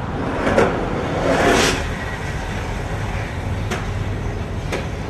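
Street traffic noise: a steady low rumble with a vehicle whooshing past about a second in. Two light clicks come near the end.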